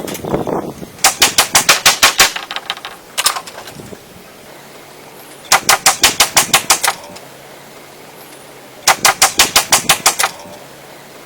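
Three bursts of rapid, sharp knocking, each about ten strokes at roughly eight a second, with a single knock between the first two bursts.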